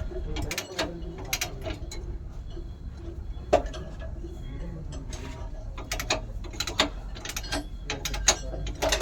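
Metal hand tools clicking and knocking irregularly while someone works on truck parts, with quick clusters of clicks and one sharper knock a few seconds in, over a steady low rumble.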